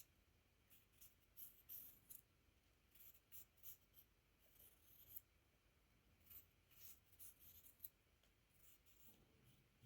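Faint wood fire crackling: small, irregular snaps and pops scattered through the stretch, over a low steady background.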